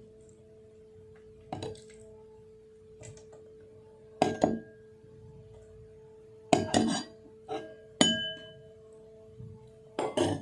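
Thali dishes clinking and knocking against each other several times, a few strikes leaving a short ringing tone.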